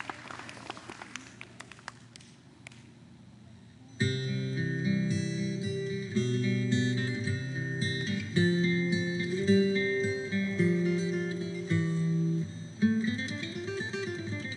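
Acoustic guitar music with plucked and strummed notes, starting abruptly about four seconds in. Before it, scattered sharp clicks die away.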